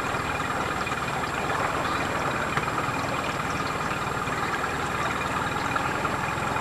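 Outboard motor of a small boat running steadily.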